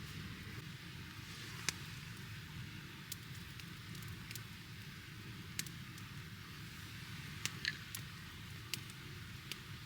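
Wood campfire burning, crackling, with a dozen or so sharp pops scattered through it.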